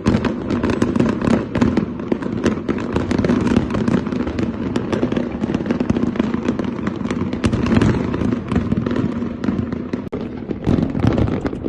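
Fireworks going off in a dense, continuous barrage of rapid pops and bangs with no break.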